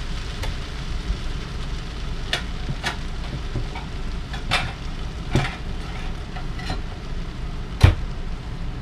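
Fried rice sizzling steadily in a hot electric skillet. Scattered sharp clicks and pops sound through it, and the loudest comes near the end.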